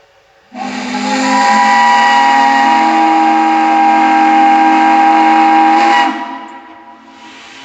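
A loud whistle sounding a chord of several steady tones over a hiss. It starts about half a second in, holds for about five and a half seconds, and cuts off quickly.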